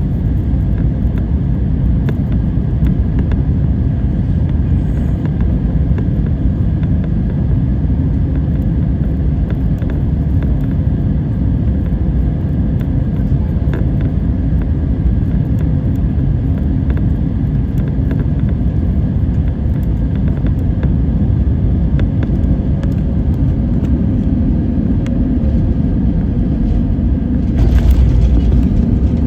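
Steady low rumble of a jet airliner, with faint steady engine tones over it. Near the end it becomes louder and fuller.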